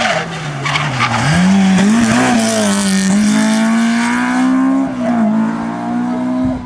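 Rally car engine running at high revs under hard acceleration, its pitch rising about a second in, holding high, then dropping briefly near five seconds in as it changes gear.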